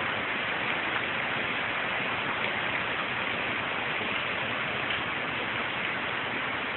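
Heavy rain pouring steadily in a severe storm: an even, unbroken hiss.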